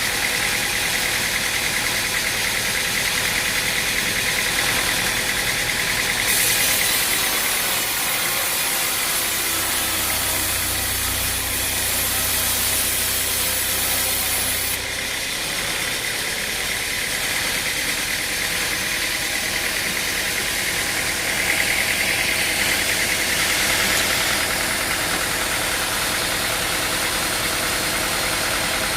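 A machine's engine running steadily. Between about six and fifteen seconds in, its sound changes, with more hiss and a deep hum added.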